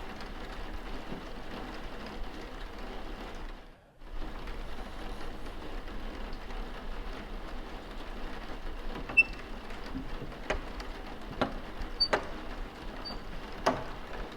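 Steady rain ambience that drops out for a moment about four seconds in, then goes on. In the last few seconds, a handful of sharp clicks and knocks sound over it.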